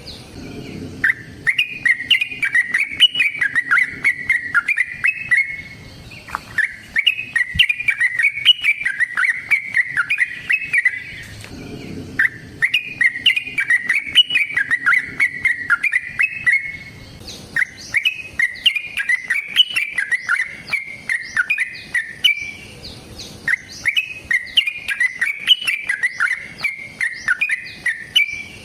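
Yellow-vented bulbul (trucukan) singing long runs of rapid, bubbling chattering notes, in five phrases of about four to five seconds each with short pauses between.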